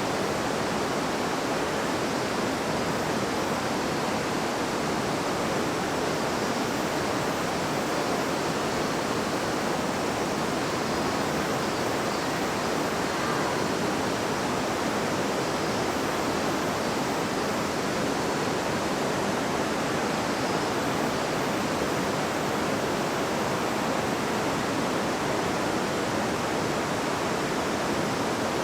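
A river babbling, a steady even rush of flowing water that does not change.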